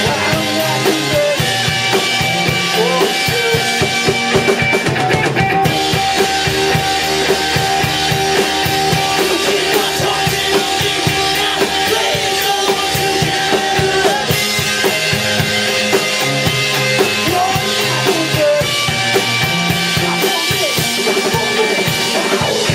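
Live rock band playing an instrumental passage: drum kit with bass drum and snare keeping a steady beat under sustained guitar notes.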